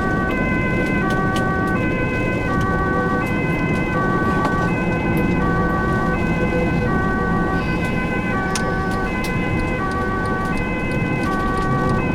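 Ambulance two-tone siren alternating steadily between a high and a low note, about one high-low cycle a second, heard from inside the ambulance's cab over the engine and road noise.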